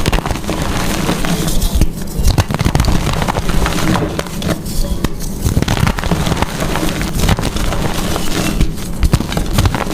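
Blocks of gym chalk being crushed and crumbled, a dense run of crunchy crackles and snaps without a break.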